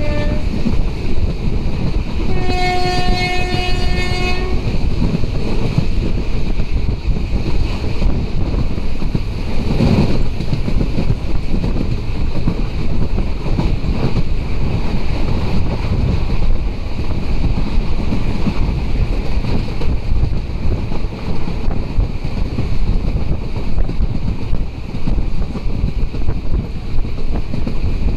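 Passenger train running at speed, a steady rumble of wheels and rushing air. A train horn sounds one steady note for about two seconds near the start, and there is a single thump about ten seconds in.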